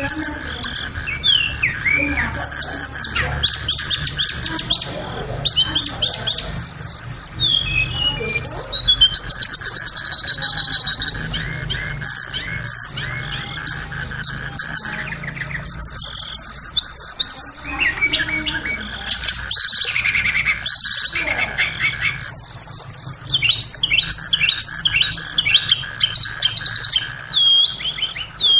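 Tledekan (a Cyornis blue flycatcher) singing a long run of varied whistled phrases, fast trills and chattering note series, high-pitched, with a steady hum underneath.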